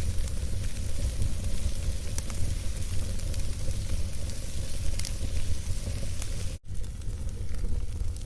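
Campfire burning, with scattered small crackles over a steady low rumble. The sound cuts out for an instant about six and a half seconds in.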